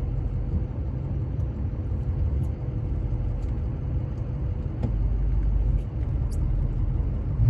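The 2005 Ford F-250's 6.0 Powerstroke turbo-diesel V8 runs as the truck drives: a steady low rumble with a few faint clicks.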